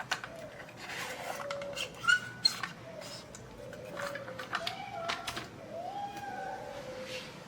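Scattered light clicks and taps, as of small plastic parts being handled, over a faint wavering squeaky tone.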